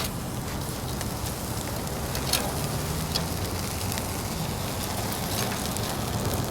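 Fire burning in a fire-pit grill: a steady crackling hiss with a few sharp pops, the loudest a little over two seconds in.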